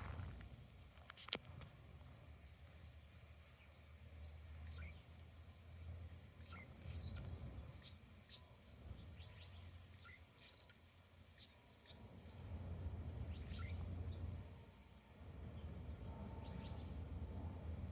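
Hummingbird squeaking: a long run of rapid, very high-pitched chattering notes from about two seconds in until a few seconds before the end, over a steady low hum.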